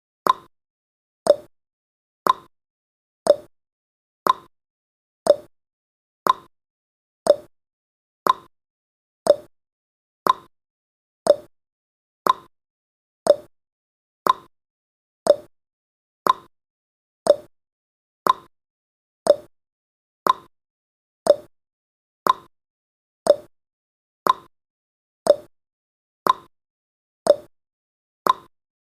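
Countdown timer's ticking sound effect: a short, sharp tick once a second, evenly spaced and unchanging.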